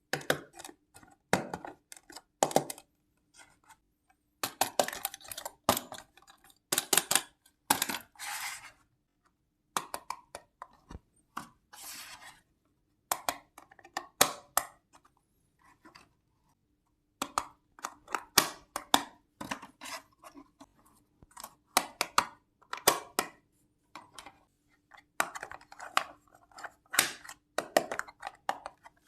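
Miniature toy kitchen pieces being handled and set down: irregular sharp clicks, taps and small clatters, with short bursts of scraping or rustling between silent gaps, over a faint steady hum.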